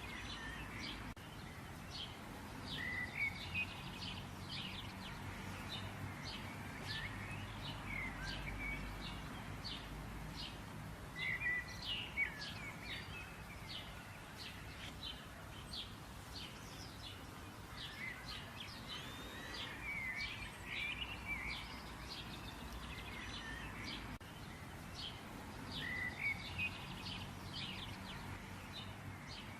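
Several small birds chirping and calling in quick, short notes, in bursts throughout, over a steady low background rumble.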